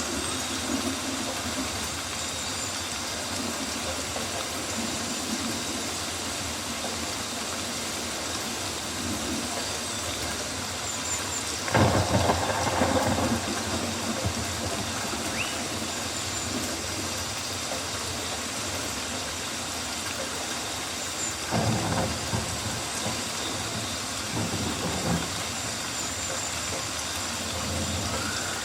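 Steady rainforest rain ambience, a continuous hiss of rain on foliage. A louder surge lasts about a second and a half near the middle, and two shorter ones come later.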